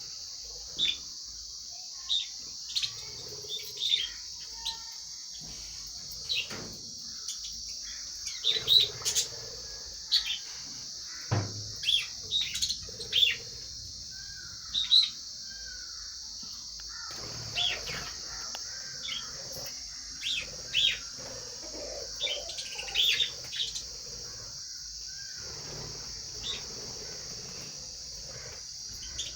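Lovebirds chirping: short, shrill calls at irregular intervals, sometimes several in quick succession, over a steady high-pitched hiss.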